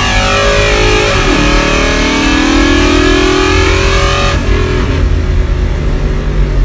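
Carbureted drag car's engine at full throttle during a drag-strip pass, heard from inside the cabin, its note climbing with speed. The pitch breaks and drops about a second in, then climbs again. About four seconds in, the engine note falls away as the throttle is lifted and the car coasts.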